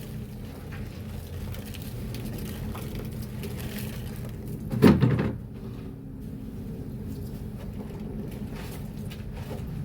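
Bedsheets being washed by hand and feet in soapy water, with a steady working noise and one loud thump about five seconds in.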